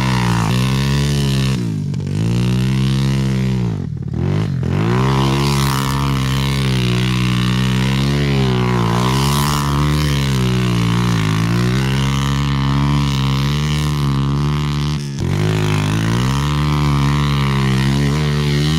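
Dirt bike engine running under load as it is ridden, its pitch rising and falling with the throttle. It drops sharply as the throttle closes about 2 s in, again around 4 s, and once more near 15 s.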